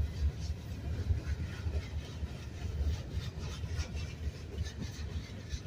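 Autorack freight cars rolling slowly past on the rails: a steady, uneven low rumble with faint scattered clicks from the wheels and couplers.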